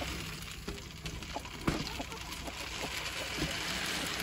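Light knocks and clicks from handling a hanging plastic chicken feeder filled with pellets, a sharper knock about halfway through.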